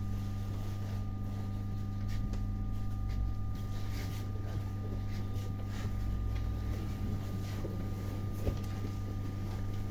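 Steady electrical hum inside an ER9T electric multiple unit carriage, with two faint steady higher tones, scattered light clicks and one short knock near the end.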